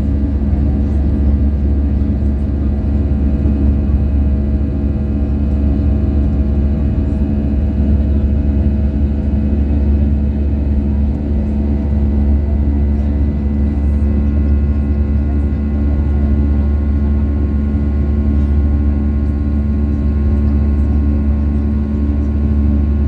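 Airbus A320-200 cabin noise, heard from a window seat with the aircraft under way: a steady, loud low jet-engine drone with several unchanging engine tones above it.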